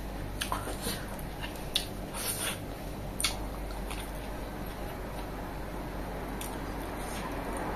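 A person chewing food, with scattered short, sharp mouth clicks and smacks over a low steady background.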